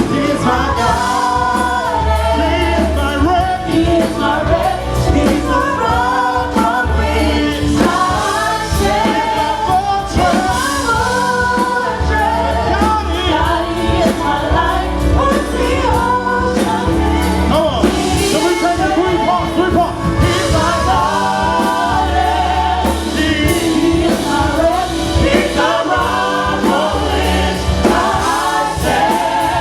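Gospel-style worship song with a group of voices singing over a band with a strong bass line and a steady beat.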